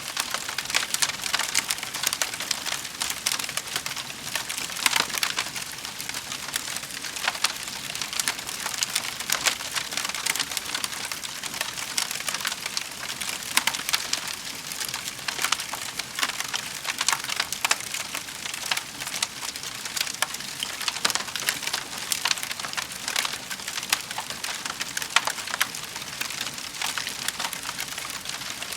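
Wood fire in a fireplace crackling steadily, with a dense run of small irregular pops and snaps over a soft hiss.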